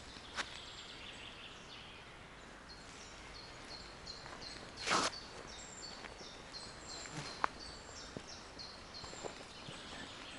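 A forest bird singing a run of short, high, repeated notes, several a second. Under it are footsteps on the forest floor, with a louder scuff about halfway through.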